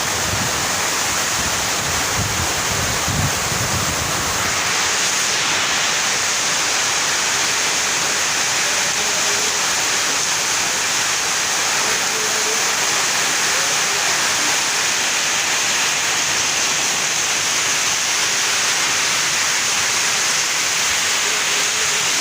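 Heavy rain falling, a loud steady hiss. A low rumble sits under it for the first four seconds or so.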